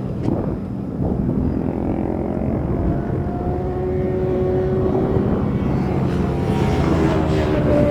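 Racing motorcycle engines at high revs out on the track, the pitch drifting as the bikes change speed. They grow louder near the end as bikes come closer.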